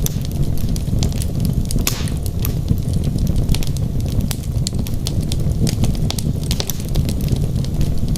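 Wood fire burning in a fireplace: steady low rumble of the flames with frequent sharp, irregular crackles and pops from the burning logs.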